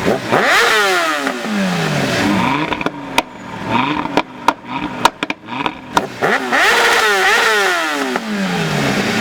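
2015 Audi RS3's 2.5-litre five-cylinder engine revved hard twice, pitch climbing quickly and falling back each time. Between the revs comes a run of sharp exhaust crackles and pops on the overrun.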